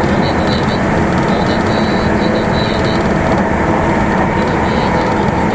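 Meitetsu limited express train running at speed: a steady rumble of wheels on rail with a faint steady whine over it.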